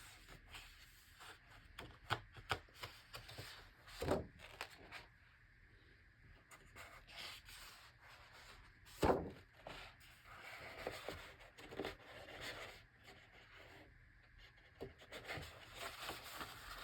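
Quiet rustling and sliding of the large paper pages of an oversized hardcover book as they are turned and handled, with a few soft knocks, the loudest about nine seconds in.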